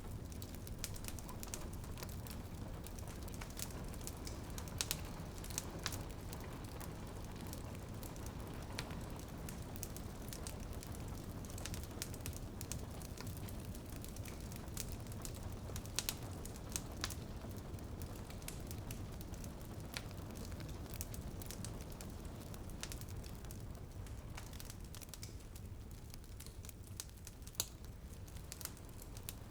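Wood fire crackling in a fireplace: frequent irregular sharp pops and snaps over a steady low rushing noise.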